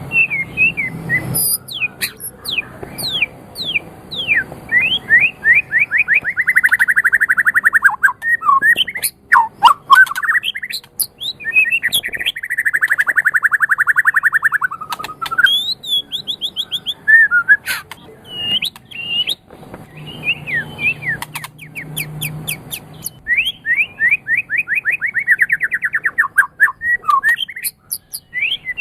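White-rumped shama (murai batu) singing a long, varied song: runs of fast repeated notes, several lasting two to three seconds, alternating with sliding whistles and sharp clicks.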